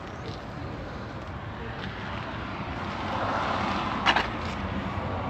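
A vehicle passing outdoors, its noise swelling and fading in the second half, with one sharp click about four seconds in.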